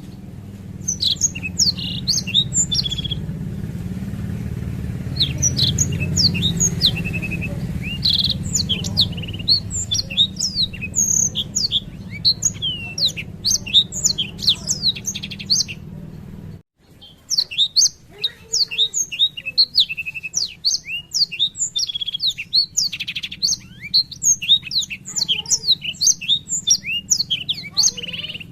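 Black-throated canary (blackthroat) singing a long, rapid rolling song of high chirps and trills with hardly a pause. A steady low hum runs under the first part of the song and cuts off suddenly about two-thirds of the way through.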